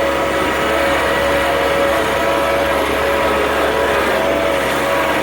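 John Deere 1023E compact tractor's three-cylinder diesel running steadily under load, with a steady whine over the engine sound, as the machine drives in reverse through snow.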